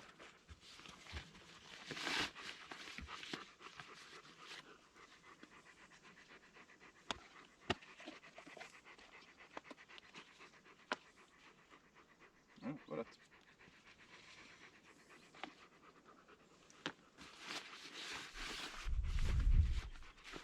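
Dog panting in uneven bursts, with a few sharp clicks. A brief pitched sound comes about two-thirds of the way through, and a low rumble near the end.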